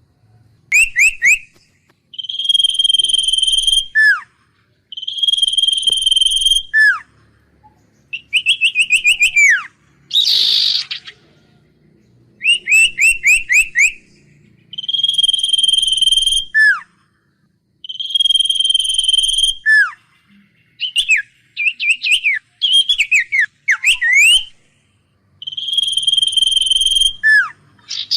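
A songbird known in Vietnam as the huýt cô singing loud, clear whistled phrases every couple of seconds: quick runs of short down-sliding notes alternate with long steady high whistles that end in a falling slide. One harsh, rasping note comes about ten seconds in.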